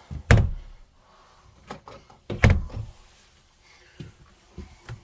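Two solid thunks about two seconds apart, with lighter clicks and knocks between and after: a camper's cabinet or refrigerator door being opened and handled.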